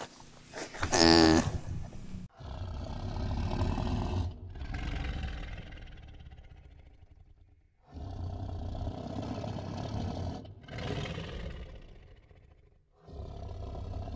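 A big cat roaring and growling in a series of separate noisy calls, each starting and stopping abruptly, after a short pitched animal call about a second in.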